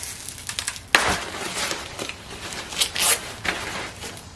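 A sharp knock about a second in, then irregular rustling and light clattering as a used car part is picked up and handled.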